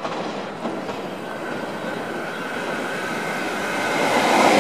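NSW TrainLink Intercity double-deck electric train running in through the station, the rolling noise of its wheels on the rails growing louder as it nears and passes close by. A faint steady whine sits above the rumble through the middle of it.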